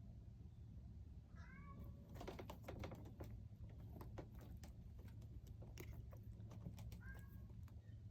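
Domestic cat giving two short meows, one about a second and a half in and one near the end. A run of faint quick clicks falls between them.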